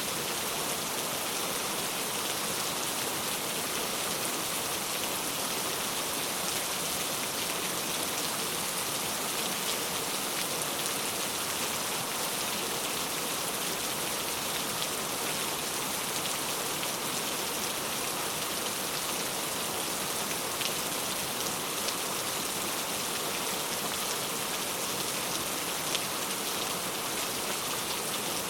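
Steady rain falling, an even hiss of many drops striking a surface, with a few louder drop ticks now and then.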